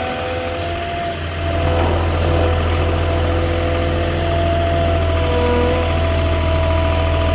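Moffett truck-mounted forklift's engine running, getting louder about a second and a half in as the machine is manoeuvred to turn around, with a steady whine running over the engine note.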